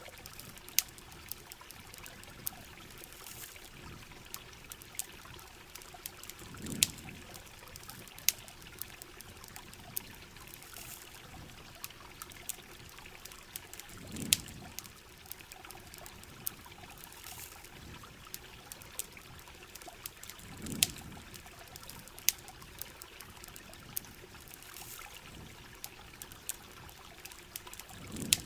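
Steady heavy rain with the running water of a river, over which a campfire pops and crackles with frequent sharp snaps. A low, soft whoosh swells and fades about every seven seconds.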